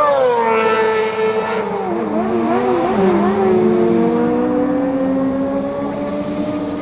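Four-cylinder supersport motorcycles at race speed on a circuit. One passes close, its engine note dropping sharply as it goes by, then several more bikes overlap with wavering pitches as they change revs, one rising slowly as it accelerates.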